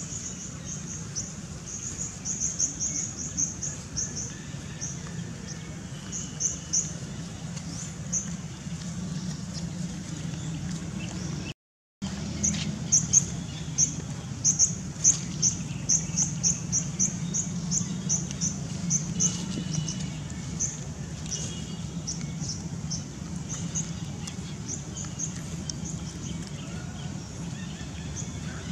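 Outdoor ambience: birds chirping in quick runs of short, high-pitched notes over a steady low hum. The sound cuts out for a moment near the middle.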